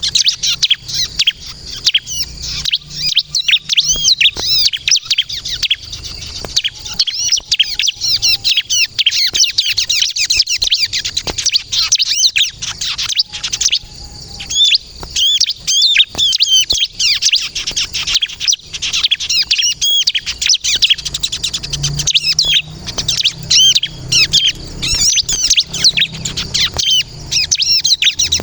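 Bar-winged prinia (ciblek kristal) in full song: a fast, unbroken stream of high, thin chirps and trills, easing briefly about halfway through.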